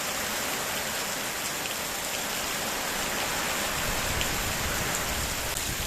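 Heavy typhoon rain falling steadily, a continuous hiss with scattered drop ticks.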